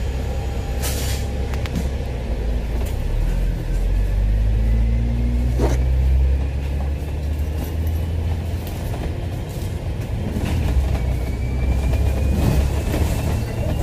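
Double-decker bus engine and drivetrain heard from inside the bus, pulling with a steady low rumble. The engine note rises, then drops about six seconds in at a gear change, and a faint high transmission whine climbs in pitch twice as the bus gathers speed.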